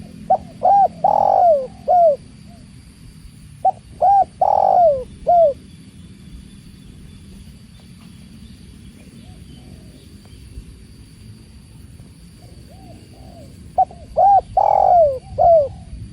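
Spotted dove cooing: three phrases of a few short coos, each with a longer, louder drawn-out note in the middle, one right at the start, another a few seconds later and the third near the end. A steady low rush of water runs underneath.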